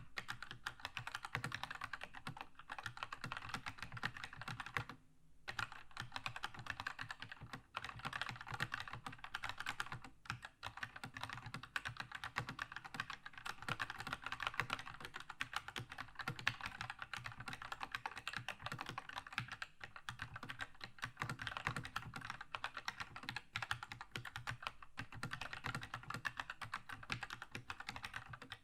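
Fast continuous typing on a Keychron K2 mechanical keyboard with red linear switches: a dense patter of keystrokes, with a brief pause about five seconds in and short gaps near seven and ten seconds.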